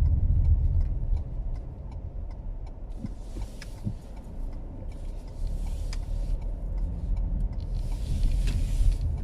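Car cabin noise while driving: a steady low engine and road rumble, with three brief hissing swishes about two and a half seconds apart.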